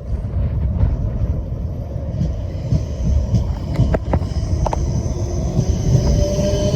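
A train rumbling through the station at close range, with a few sharp clicks about four seconds in. High wheel squeal sets in near the end.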